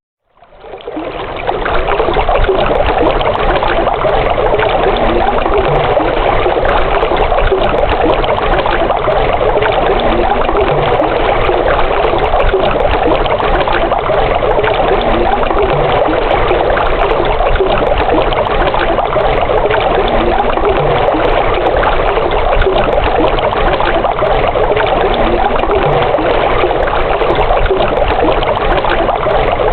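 Water flowing steadily, an even rushing-trickling sound that fades in out of a short silence during the first second or two and then holds level.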